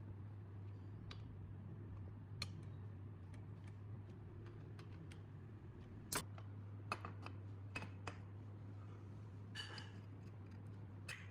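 Sparse, irregular light clicks and taps, as of small parts and tools being handled on a workbench, over a faint steady low hum.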